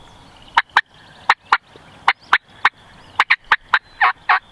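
Wild turkey cutting: a loud run of about a dozen sharp, short clucks, unevenly spaced and coming faster toward the end.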